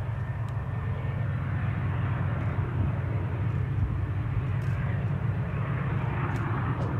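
Diesel freight locomotives heard from afar as they work a train along a mountain grade: a steady low rumble that grows slightly louder.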